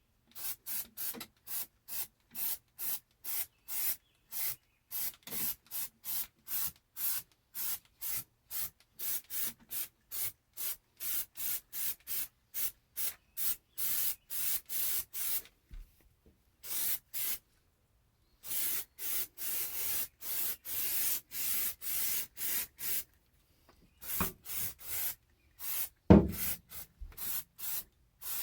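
Rapid back-and-forth hand scrubbing, about two to three strokes a second, each stroke a short dry rubbing hiss. The scrubbing stops for a couple of seconds about halfway through and briefly again near the end.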